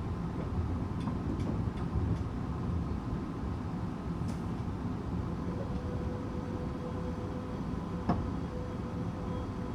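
Tokyu 8500 series electric train with Toyo-built traction motors, heard from inside the car while running: a steady rumble of wheels and motors with occasional sharp clicks and knocks. A faint steady tone sets in about halfway.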